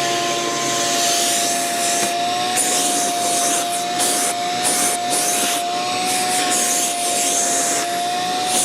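Vacuum cleaner running with a steady motor whine and a rushing hiss that swells and drops repeatedly as the nozzle works over the truck's cab, sucking up mouse mess.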